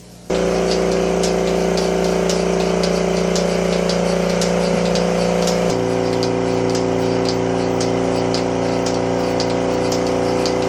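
A motor-driven machine switches on suddenly and runs steadily with a humming drone and a light, regular ticking about twice a second; its tone shifts to a lower pattern about halfway through.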